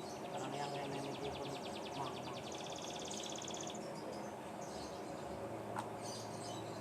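Domestic canary singing a rapid trill of evenly repeated high notes, switching to a faster, higher roll for its last second or so; fainter chirps follow near the end.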